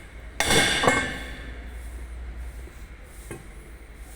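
A hammer strikes a steel part twice in quick succession, about half a second in. Each blow rings metallically and dies away over about a second, and a faint tick follows later.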